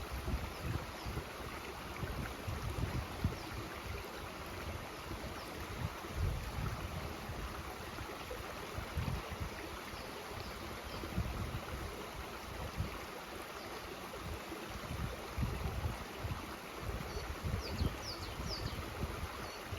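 Mountain stream rushing steadily, with wind buffeting the microphone in irregular low gusts. A few short, high chirps come near the end.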